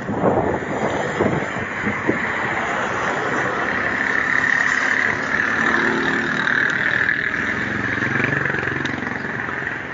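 Road and wind noise on the microphone, with a few knocks early on. A motor vehicle's engine passes in the second half, its pitch shifting as it goes by.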